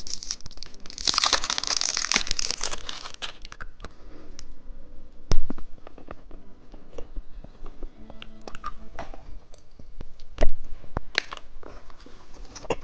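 Plastic candy wrapper crinkling and tearing open, dense for the first three seconds, then scattered sharp clicks and taps, two of them loud at about five and ten seconds in.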